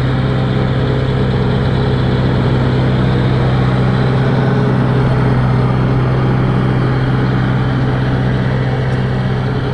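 A vehicle engine running steadily at an even speed, with a strong, constant low hum.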